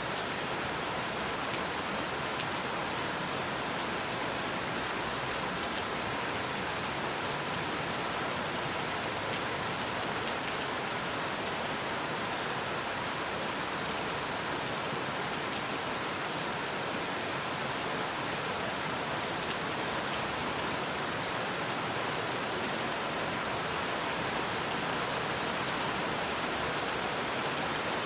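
Steady rain falling: an even hiss with scattered sharp ticks of drops, unchanging throughout.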